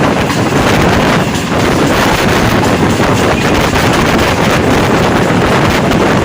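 Passenger train running at speed: the steady rumble of the carriage on the track, with wind buffeting the microphone.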